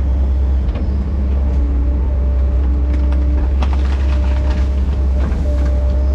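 Diesel engine of a heavy earthmoving machine running steadily with a deep rumble and a faint whine, with a few short knocks or clanks from the machine at work.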